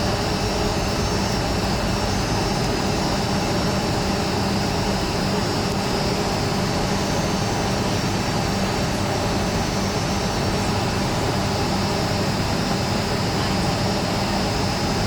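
Rolls-Royce RB211 turbofan engines of a Boeing 757-200 running steadily, heard inside the passenger cabin: an even rush with a low hum and a high, steady whine.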